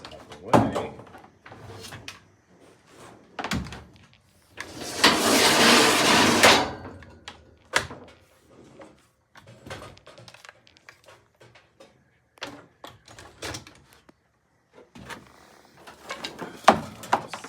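Scattered knocks, clunks and rattles from unhooking the overhead winch rigging (ropes, hooks and tackle) from a bolted-up MDF slab. About five seconds in comes a louder rushing noise lasting about two seconds.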